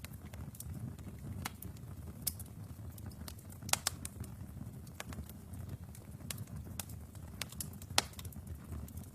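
Wood fire burning in a fireplace: a low steady rumble with scattered sharp crackles and pops, the loudest a little before the middle and near the end.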